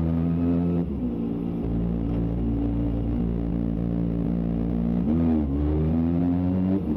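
Kawasaki ZX-25R's 250 cc inline-four engine running hard through a Yoshimura Alpha exhaust while riding. The pitch holds steady, dips briefly about a second in and again near the end, and rises and falls quickly about five seconds in.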